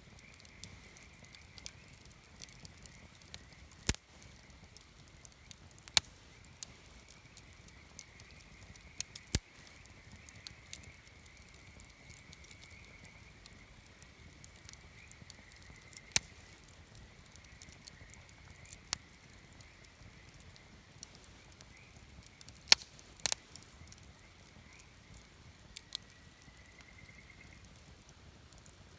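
Wood campfire crackling: sharp irregular pops and snaps, the loudest a quick pair about two-thirds of the way through. A faint steady high whine runs underneath and stops near the end.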